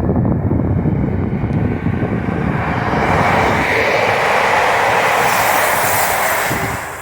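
A train passing close by at speed, the noise of its wheels on the rails building and brightening through the middle, then falling away near the end.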